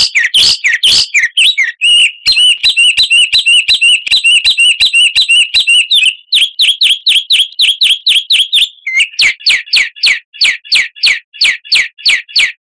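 Songbird chirping in a fast, loud series of short high notes, about four a second; about midway the notes change to sharp down-slurred chirps.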